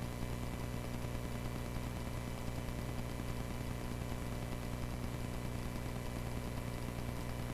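Cessna 140A's piston engine and propeller running steadily in flight, a constant drone heard from inside the cockpit.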